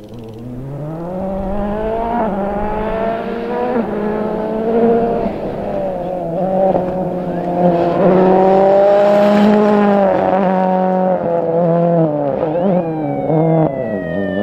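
Ford rally car's engine at speed on a stage, climbing from low revs about a second in, then revving up and down through gear changes, with the revs dropping near the end.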